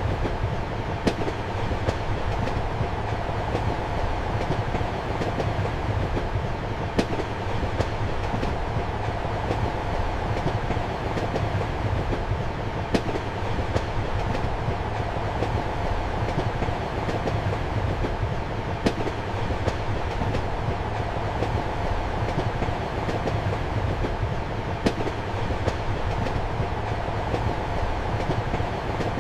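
Passenger train heard from inside a compartment: a steady low rumble and rattle of the wheels on the rails, with sharp clicks about every six seconds.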